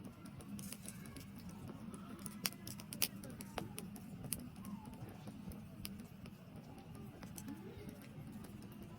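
Wood fire burning in a campfire, with scattered sharp crackles and pops over a steady low rumble; the loudest pops come a few seconds in.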